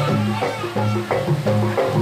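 Jaranan ensemble music: struck gamelan-type pitched percussion playing a fast repeating pattern over regularly repeating low tones.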